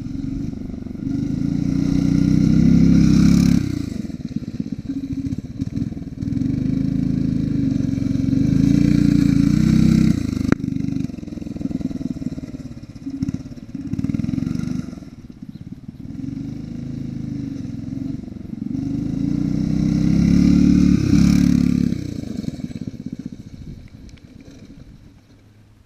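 An 8 hp single-cylinder engine on a 1960s Rupp go-kart is revving up and easing off in repeated long surges as the kart spins donuts, dying away near the end. There is one sharp knock about ten seconds in.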